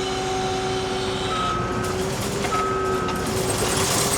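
Case TR320 track loader's diesel engine running steadily under load while the machine backs up, its backup alarm sounding two beeps in the middle.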